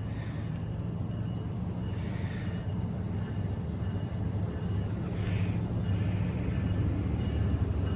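Approaching train: a steady low engine hum that grows slowly louder, with a few brief higher-pitched hisses or squeals over it.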